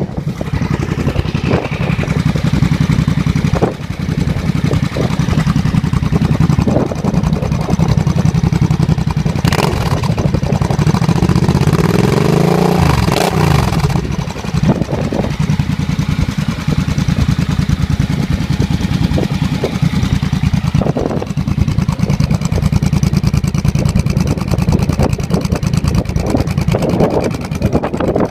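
Suzuki VL800 V-twin running through Vance & Hines Straight Shots pipes, idling steadily. There is one rise and fall in engine speed about twelve seconds in.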